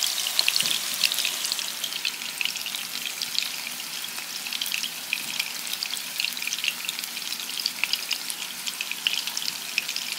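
Chicken kofta patties frying in hot oil in a pan: a steady sizzle thick with small crackling pops, a little louder in the first second.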